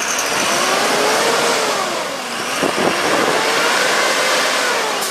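A vehicle engine revving under a loud rush of noise. Its pitch rises, drops to a low point about two and a half seconds in, then climbs again.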